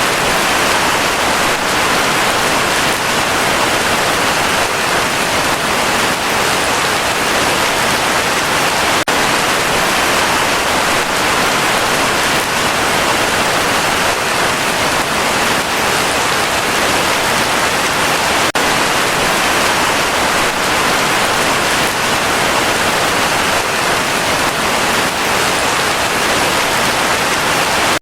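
Heavy rain pouring steadily: a dense, even hiss that holds at the same loudness throughout.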